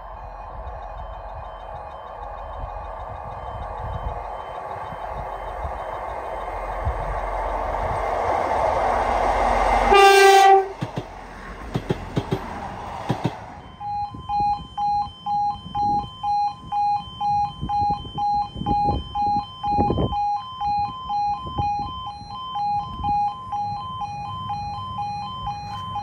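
A train approaches a level crossing, growing steadily louder, and gives a short, loud two-tone blast on its horn about ten seconds in. It passes with rail noise and wheel clatter. Then the crossing's two-tone yodel alarm comes to the fore, pulsing a little under twice a second.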